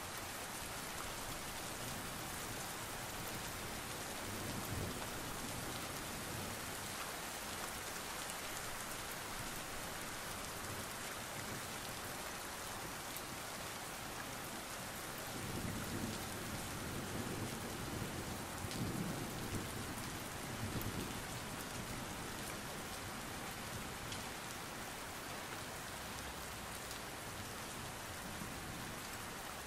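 Steady rain, an even hiss, with a low rumble that swells and fades for several seconds about halfway through.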